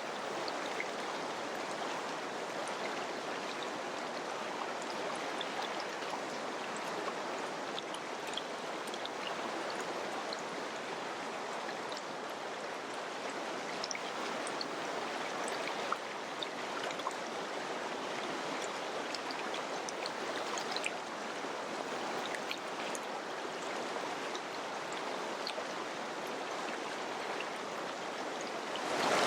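River water flowing over rocks, a steady rush with many small splashes and drips through it.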